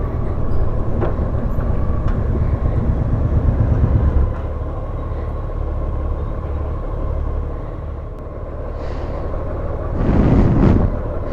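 Honda Gold Wing motorcycle riding along, a steady low engine and road rumble with a thin steady whine above it. The rumble eases slightly about four seconds in, and a brief louder rush of noise comes about ten seconds in.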